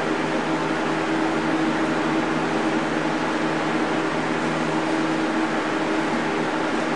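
Electric fan running steadily at high speed, giving a constant rush of air over a motor hum.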